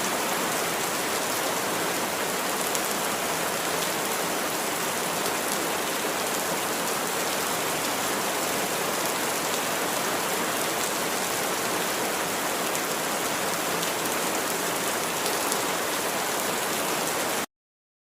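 Steady rain falling, an even hiss with faint scattered drop ticks, cutting off suddenly near the end.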